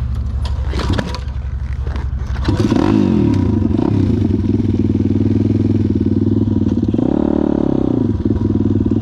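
Kayo pit bike engine running, with clattering knocks during the first couple of seconds. About two and a half seconds in the revs rise and then hold steady, and around seven seconds in they rise and fall again.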